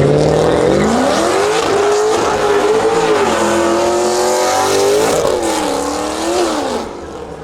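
Car engine revving hard in a burnout with its tyres spinning and squealing. The revs climb over the first second or so, hold high and waver as the throttle is worked, then drop away near the end as the driver lets off.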